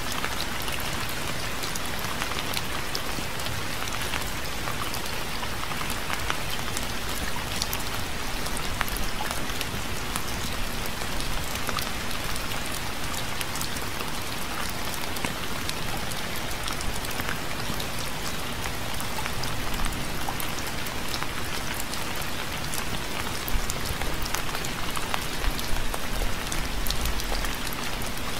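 Steady rain falling on a surface, an even hiss with many separate drop ticks.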